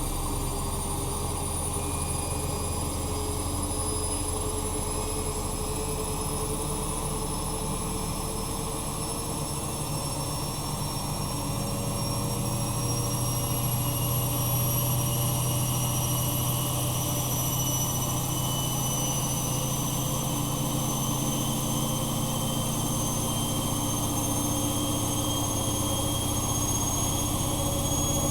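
Bosch Maxx Advantage WFCX2440 slimline washing machine spinning, its motor's whine slowly rising in pitch as the drum speeds up. The hum gets a little louder about twelve seconds in.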